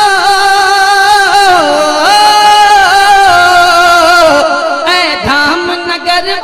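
A male naat reciter singing a long drawn-out melismatic passage, holding notes and sliding between them, with a run of ornaments and a dip to a lower note near the end.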